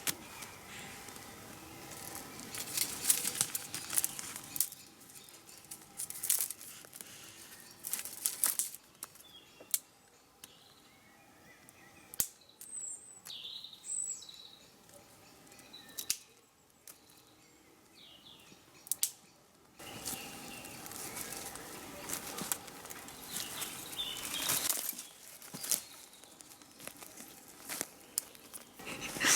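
Rustling and crunching of footsteps through the forest floor, in uneven bursts of sharp crackles. In the quieter stretch midway, a few short high bird chirps sound.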